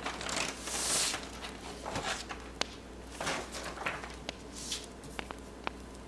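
Pen strokes scratching across paper in short hissing swishes, the longest in the first second, with sharp pops and snaps from a crackling wood fire, most of them in the second half.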